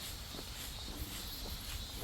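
Footsteps of someone walking at a steady pace on a park path, a few soft steps a second, over a steady high-pitched hiss and a low rumble.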